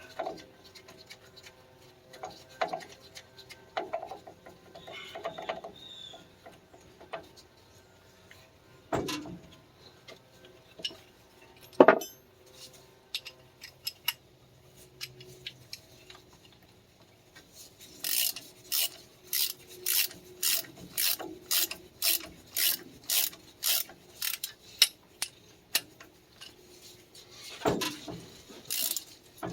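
Ratchet wrench clicking in short strokes, about two a second, as a bolt is run in on the tractor's front axle. Before that, scattered metal clinks and a sharp knock about twelve seconds in.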